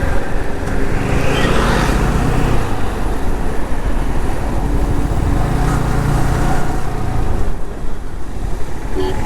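Motorcycle running on the move, with steady engine, road and wind rumble on the rider's microphone, swelling in the low end twice.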